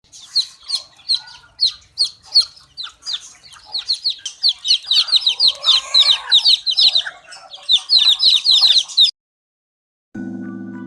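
A group of chicks peeping: many short high peeps, each dropping in pitch, growing denser and overlapping after about four seconds. They cut off suddenly about nine seconds in, and music begins near the end.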